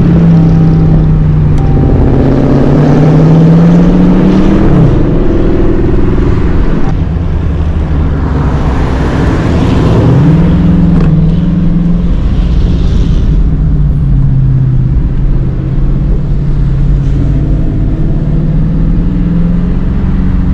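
Dodge Hemi V8 engine running loud, its pitch rising and falling several times as it is revved up and let back down.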